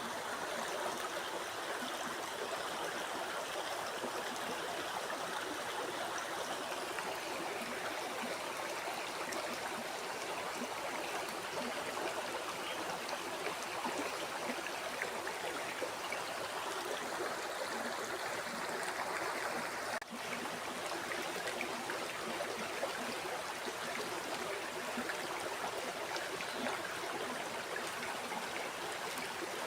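Flowing river water, a steady even rush with a brief split-second dropout about two-thirds of the way through.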